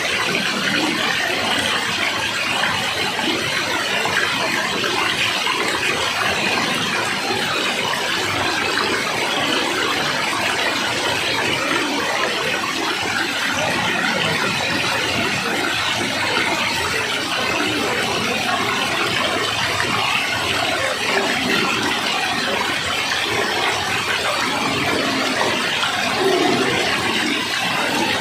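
Flowing water rushing in a steady, unbroken stream.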